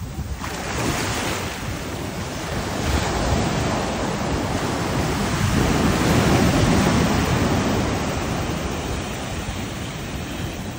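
Caribbean surf breaking on a beach. A wave comes in about half a second in, and the wash swells to its loudest around the middle before easing off toward the end.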